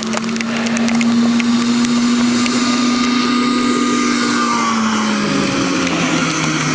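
Vintage snowmobile engine running at a steady pitch that rises slightly at first and drops off about five seconds in.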